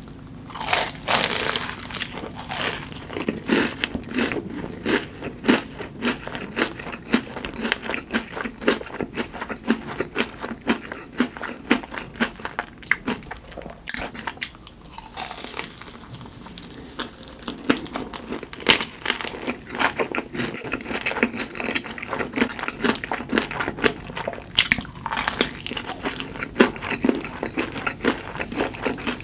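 Close-miked crunching and chewing of crispy fried food: steady crisp crunches between chews, with several louder crunchy bites spread through.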